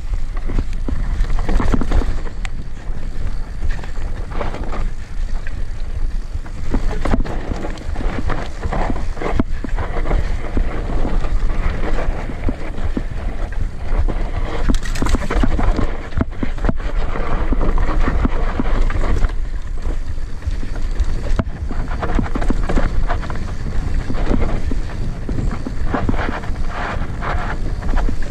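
Steady rushing of a waterfall, with a low rumble of wind buffeting the microphone.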